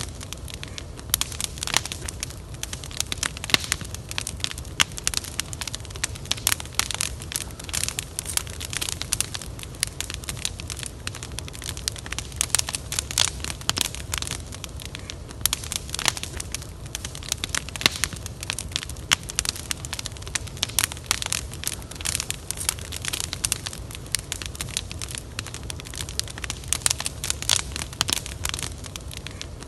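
Wood fire burning, with dense irregular crackles and sharp pops over a low steady rumble.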